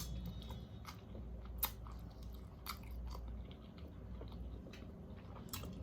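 Person chewing food close to the microphone, with a few short wet clicks and smacks from the mouth.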